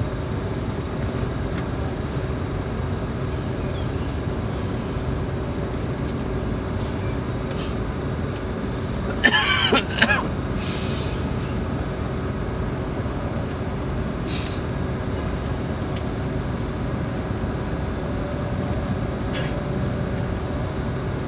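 Steady drone of a Scania K410IB coach on the move, engine and road noise heard inside the passenger cabin. About nine seconds in there is one short, sharp sound that stands out above it.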